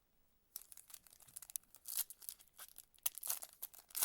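Foil wrapper of a trading card pack being torn open and crinkled by hand, starting about half a second in as a run of sharp, crackly rustles.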